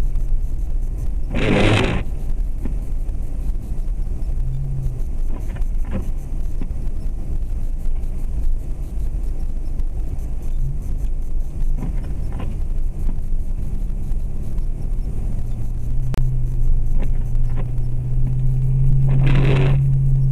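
2004 Jeep Grand Cherokee's 4.7 L V8 driving on snowy roads, heard from inside the cabin: a steady low engine and road rumble, with the engine note growing stronger about three-quarters of the way through. A short, louder rushing scrape comes about a second and a half in and again near the end.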